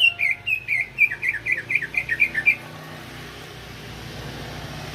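Cucak ijo (green leafbird) song: a rapid run of loud, downward-slurred whistled notes, about four a second, breaking off about two and a half seconds in. A steady low hum remains afterwards.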